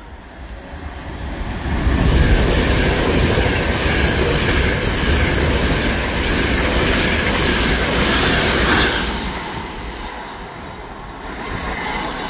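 An Avanti West Coast intercity train passing through the station at speed: a rush of wheels on rail that builds over the first two seconds, with steady high-pitched tones over it, then dies away about nine seconds in.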